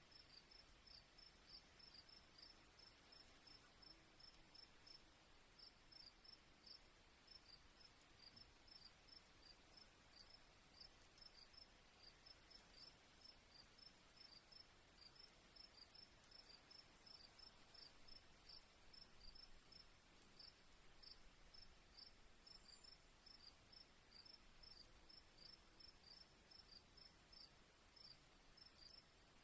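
Crickets chirping faintly: a steady high trill with a second, lower chirp pulsing several times a second without a break.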